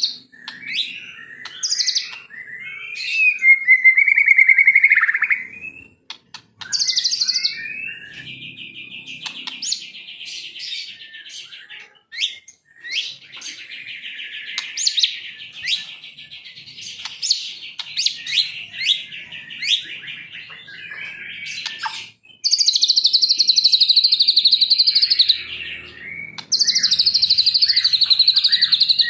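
White-rumped shama singing a varied song of whistles and chattering phrases, with long fast trills. Two loud bursts of rapid trilling come near the end.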